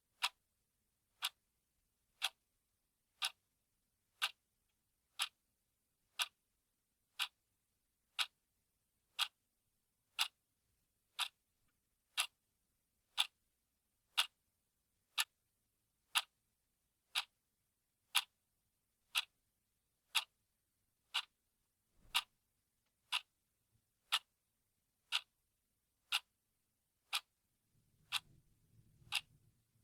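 Mechanical clock ticking steadily, one sharp tick each second. A faint low rumble comes in near the end.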